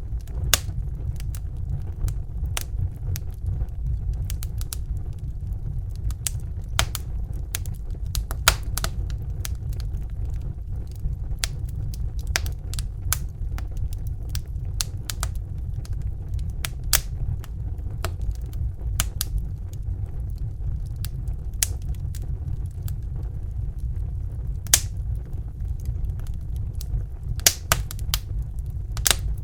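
Crackling fire: irregular sharp pops and crackles over a steady low rumble.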